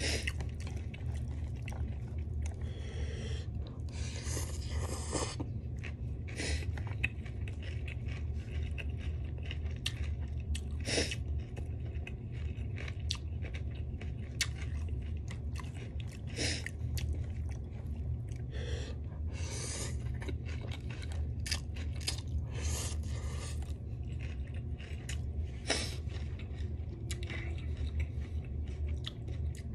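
Close-up eating sounds: chewing and biting noodles with scattered crunches and clicks, and a fork scraping the plate now and then, over a steady low hum.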